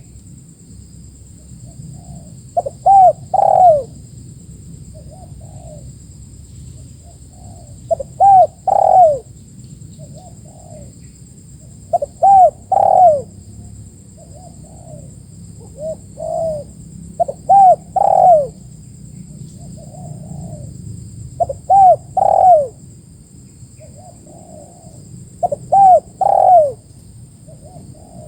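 Spotted doves (tekukur) cooing close by: a loud phrase of about three rounded coos comes roughly every four seconds, about seven times, with softer coos in between.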